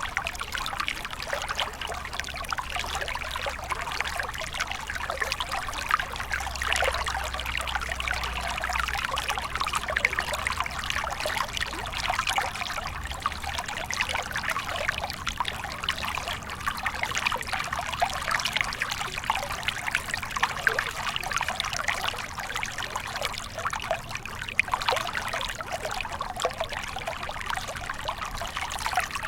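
Small stream flowing, water trickling and splashing over stones in a steady, even babble.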